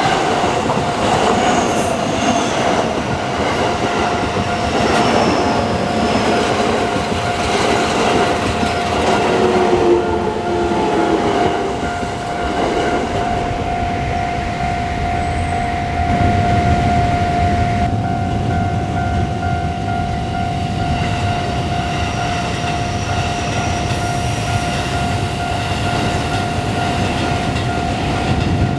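A train passing over a level crossing, with a heavier low rumble from about halfway in. A Japanese level-crossing warning bell rings at one steady pitch throughout.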